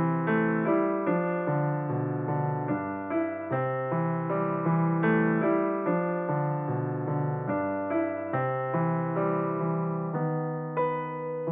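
Background music: a gentle piano piece with notes struck at an even, unhurried pace over sustained low bass notes.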